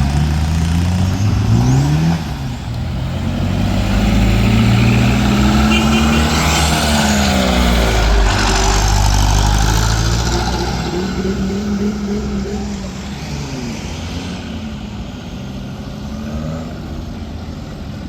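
Engines of vehicles driving past, their pitch rising and falling as they go by. Loudest in the middle, then easing off.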